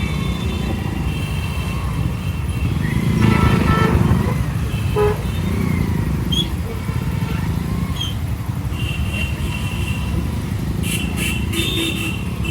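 City road traffic with wind rumbling on the microphone of a moving scooter, and vehicle horns honking now and then. The loudest swell comes about three to four seconds in.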